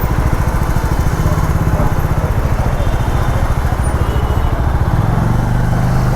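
Hero XPulse 200 4V Rally Edition's single-cylinder engine running under way, a fast steady low pulse with road and wind noise; about five seconds in its note settles into a steadier hum.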